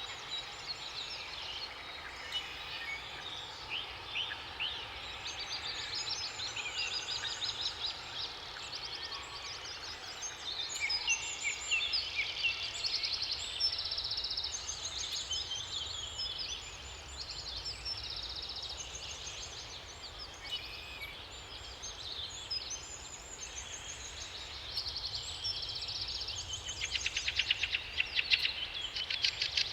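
Several songbirds singing and chirping at once, overlapping calls and rapid trills, over a steady low background noise.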